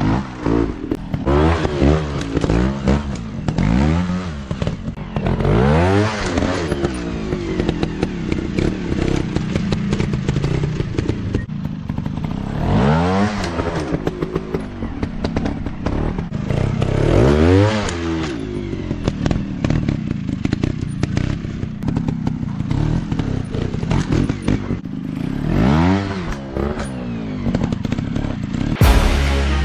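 Dirt bike engines revving hard again and again, each rev rising and then falling in pitch, with clattering and thumps from the bikes working over rough ground.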